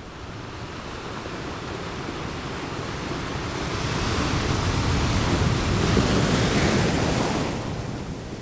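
Ocean waves surging and breaking, a wash of surf that swells to a peak about five to seven seconds in and then eases off.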